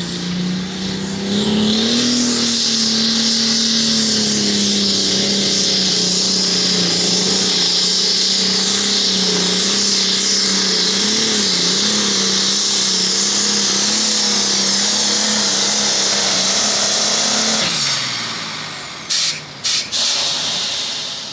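Light limited super stock pulling tractor's turbocharged diesel engine held at full throttle through a pull, a steady high-revving note with a loud high hiss for about fifteen seconds. Near the end the revs fall away as the engine backs off, and the sound briefly cuts out twice.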